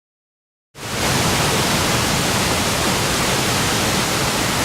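A steady rushing noise, even across all pitches, that starts abruptly about three-quarters of a second in after silence.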